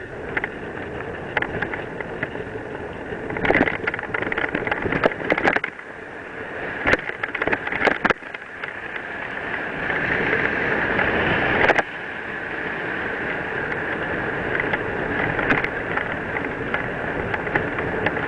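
Mountain bike being ridden on a dirt and gravel trail: tyre noise and wind on the microphone, with sharp clatters of the bike over bumps. The noise builds, drops suddenly about two thirds of the way in, and then runs on steadily.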